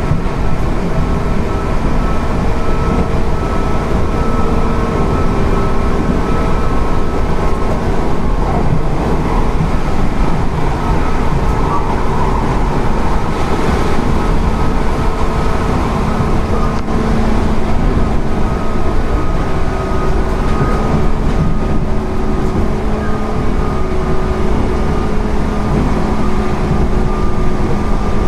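JR 205 series 0 electric multiple unit running along the line: a steady rumble of wheels on rail with the hum and whine of its DC traction motors and gears (field-added excitation control).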